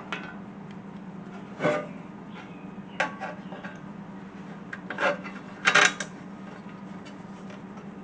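Small hex bolts and washers being handled and fitted by hand: scattered metal clicks and rubbing scrapes, five or so short clatters, the loudest a little before six seconds in, over a steady low hum.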